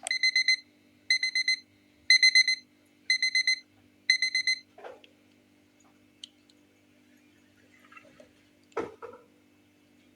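Electronic alarm beeping in quick bursts of about four high beeps, one burst a second, five times, then stopping. Two knocks follow, the louder one near the end.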